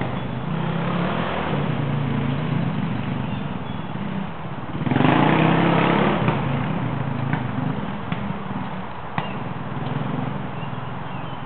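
Dirt bike engines running on a riding loop, pitch rising and falling with the throttle; one bike gets louder and revs up about five seconds in, as if passing close. A few sharp clicks follow later.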